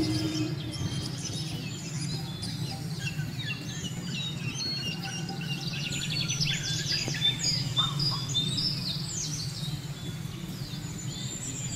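Many small birds chirping and calling in quick, overlapping bursts, over a steady low hum.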